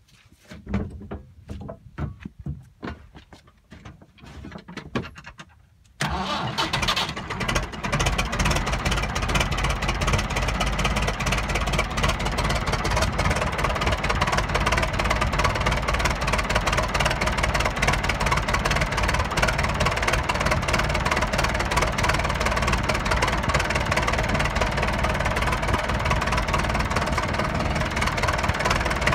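A few scattered knocks, then about six seconds in a Massey tractor's engine cranks and catches on a cold start, settling into a steady idle after a couple of uneven seconds.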